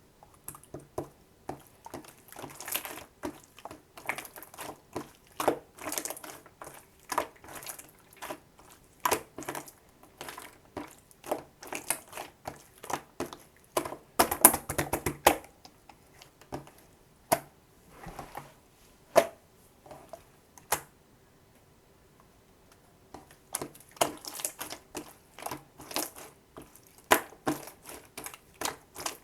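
Slime being squeezed, stretched and poked by hand, making irregular sticky clicks and pops in quick clusters, with a short pause about two-thirds of the way through.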